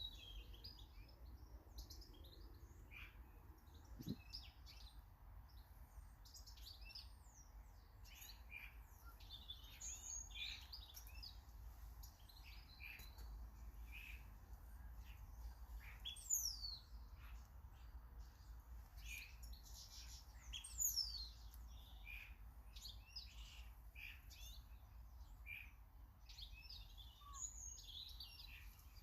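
Small garden birds chirping and calling in quick, scattered notes, with two sharp, high, falling whistles in the second half. A faint low rumble runs underneath.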